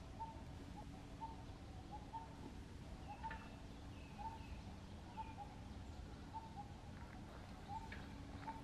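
A bird calling with a short chirp repeated about twice a second, with a few higher, falling chirps around the middle, over a low steady outdoor rumble.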